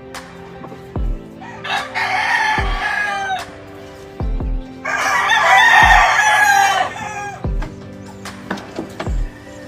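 A rooster crowing twice, each crow lasting about one and a half to two seconds. Background music with a slow, steady beat plays underneath.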